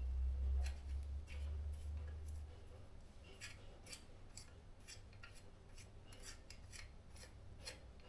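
A string of short, light clicks with some rubbing and scraping, unevenly spaced at about one to three a second: hand tools working on metal parts. A low rumble sits under the first two seconds or so.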